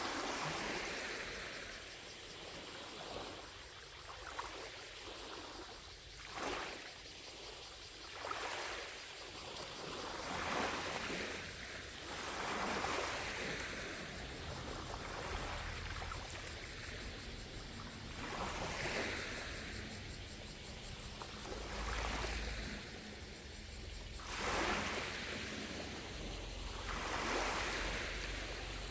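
Gentle lake waves lapping on the shore, each small wave a soft rush of water that swells and fades every two to four seconds at an uneven pace.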